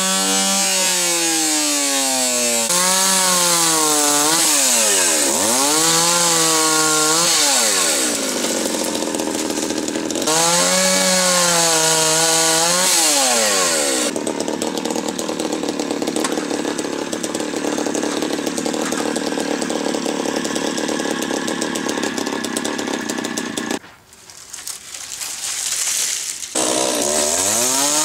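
Two-stroke chainsaw running at high revs, its pitch repeatedly sagging under load and climbing back as it cuts wood. It runs rougher and noisier through the middle. About 24 seconds in it drops off sharply, then revs back up near the end.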